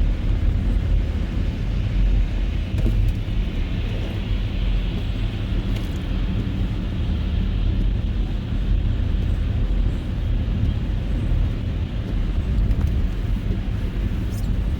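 Car driving at steady speed: a continuous deep rumble of engine and tyre road noise, with no change in pace.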